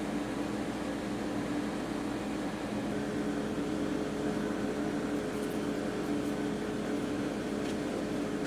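Steady mechanical hum with a hiss over it, holding a few low tones without change.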